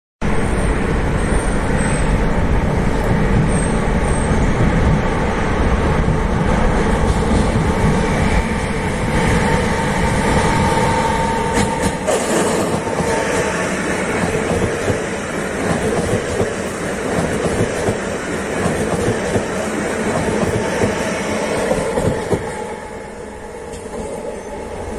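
Trains running on the rails: wheel and rail noise from a freight train's wagons, then a Koleje Dolnośląskie electric multiple unit passing close by, with a brief high squeal about ten seconds in. The noise eases near the end as the train pulls away.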